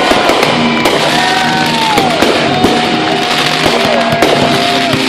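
Fireworks going off in a series of bangs, with music playing alongside.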